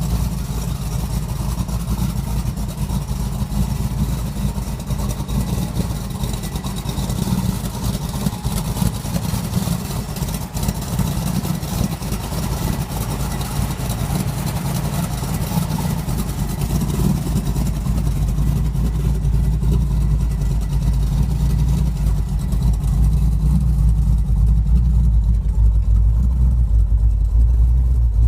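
1946 Ford truck's engine running steadily with a low rumble, which grows heavier over the last few seconds.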